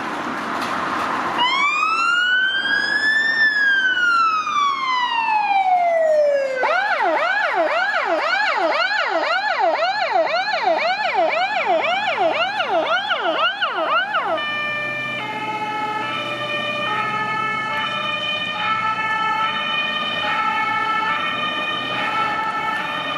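Emergency vehicle siren going through its modes: one slow wail that rises and falls, then a fast yelp of about two sweeps a second, then a stepped pattern of alternating pitches held steady to the end.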